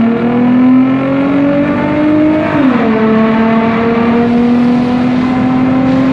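Infiniti G35's V6 with a Vibrant resonator and muffler-delete exhaust, heard loud from inside the cabin during a hard pull. The engine note climbs, drops sharply with an upshift about two and a half seconds in, then climbs again in the next gear.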